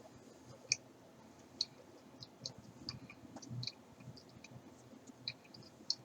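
A person chewing a gummy vitamin: irregular small mouth clicks and smacks, several seconds apart to a few a second.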